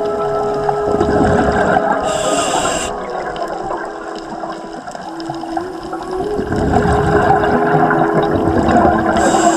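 Scuba diver breathing through a regulator underwater: a short hissing inhale about two seconds in and another near the end, with gurgling exhaled bubbles in between.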